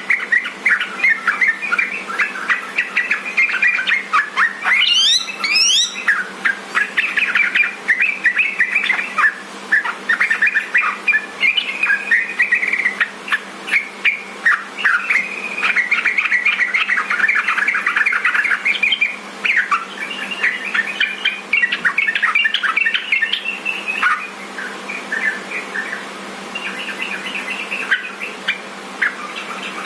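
Sooty-headed bulbul (trucukan) song: a continuous run of quick chattering chirps and short phrases. A brief, steeply rising sweep cuts through about five seconds in.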